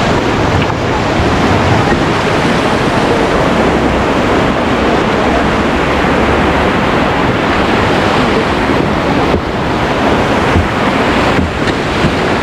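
Loud, steady rush of river whitewater around a raft, with wind buffeting the microphone.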